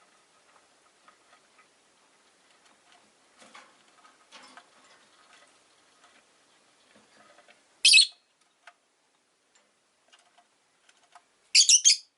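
Rosy-faced lovebirds in their cage: faint scattered clicks and taps, then a loud high-pitched chirp about eight seconds in and a longer burst of high-pitched calls near the end.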